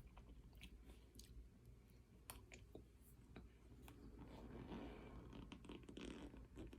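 Faint chewing and crunching of cornstarch, with scattered sharp mouth clicks that become a denser crackling about two-thirds of the way in.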